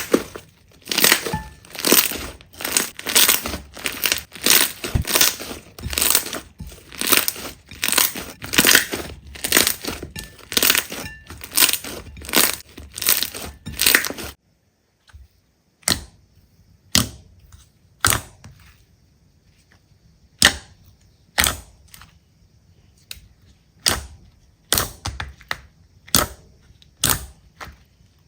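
Slime being worked, giving a quick series of sharp crackling pops for about fourteen seconds, then after a sudden change, sparser single pops about once a second.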